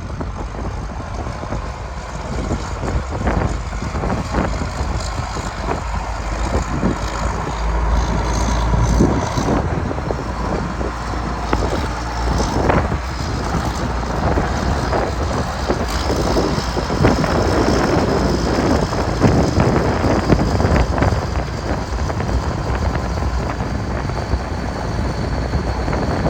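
Case IH 7140 Magnum tractor's six-cylinder turbo diesel engine running steadily, with wind buffeting the microphone.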